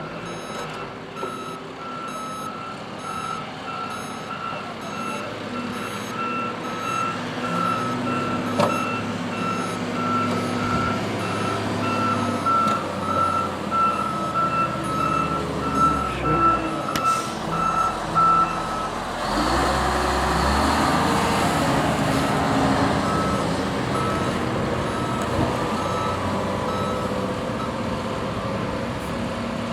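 A truck's reversing alarm beeping in a steady repeating pattern over heavy truck engines running. About two-thirds of the way through, a louder, rougher engine and road noise rises and the beeping drops back under it.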